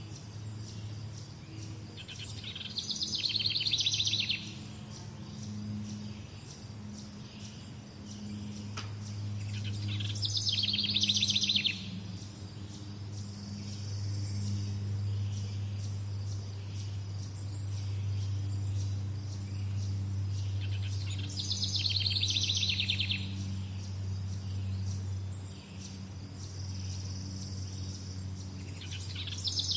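A songbird repeating the same short, fast trilled song phrase four times, each about a second and a half long and spaced eight to ten seconds apart, over a steady low hum.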